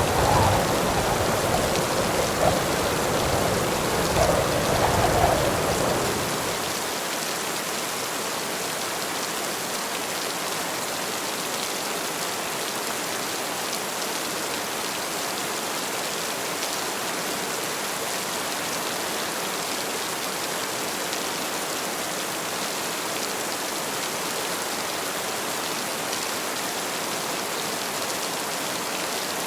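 Heavy rain falling steadily. For the first six or so seconds a deeper low rumble with a few louder swells runs underneath, then fades, leaving only the even rain.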